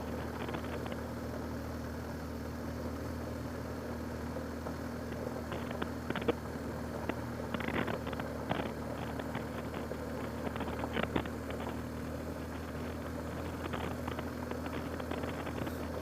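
Motorcycle engine running steadily on a rough dirt road, a low even hum, with scattered clicks and rattles from the bumpy surface, most of them near the middle.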